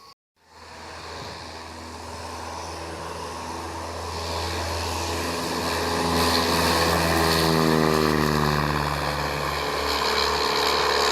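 Light propeller aircraft flying past, its engine and propeller growing louder and then dropping in pitch as it passes.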